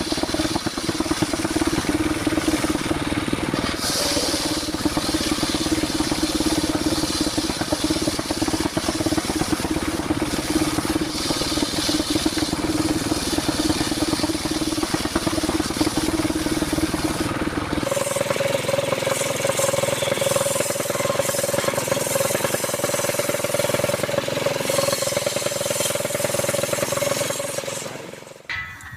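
Engine-driven circular saw cutting durian wood, running steadily under load. About two-thirds of the way through, the pitch jumps up and the low rumble drops away, as when the blade comes free of the cut. The sound falls away near the end.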